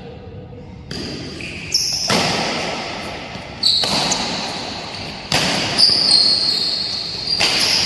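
Badminton rally: a racket striking the shuttlecock about five times, every second and a half or so, each hit echoing in a large hall.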